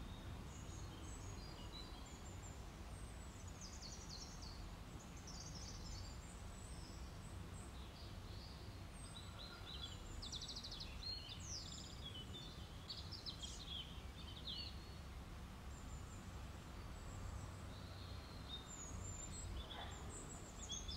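Faint birdsong: small birds give many short, high chirps and twitters over a steady low background hum.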